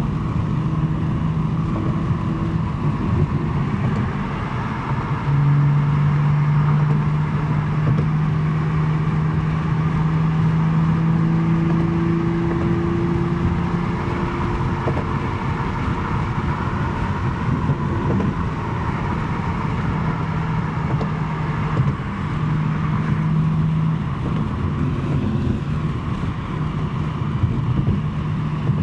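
BMW M3 G80's twin-turbo inline-six cruising steadily at freeway speed, its non-resonated J-pipe exhaust giving a low, steady drone over road and wind noise. The drone's pitch shifts slightly a few times.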